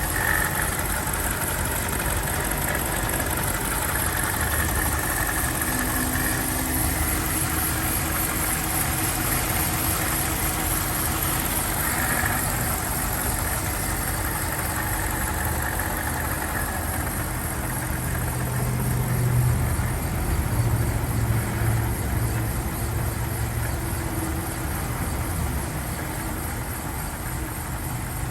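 2004 BMW 745Li's 4.4-litre V8 idling steadily after a cold start, with a low drone that swells briefly about two-thirds of the way through.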